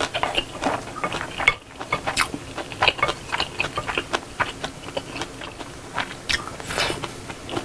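Close-miked chewing of a mouthful of rice with stew and perilla-leaf kimchi: a steady run of wet mouth clicks and smacks, with a short pause about a second and a half in.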